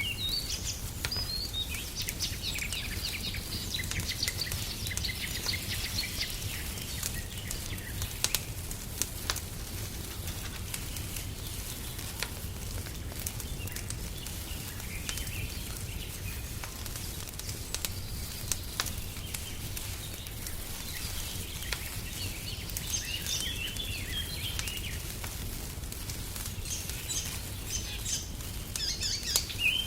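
Wood fire crackling in a fireplace, with scattered sharp pops over a low steady rush. Birds chirp in short runs near the start, about two-thirds through and again near the end.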